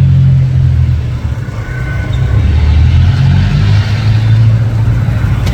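An engine running with a loud, low rumble, its pitch dropping a little over a second in and rising again near the four-second mark.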